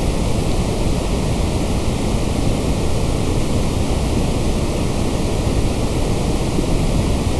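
Steady, unbroken generated white noise, fuller in the low end than in the highs, without any change in level.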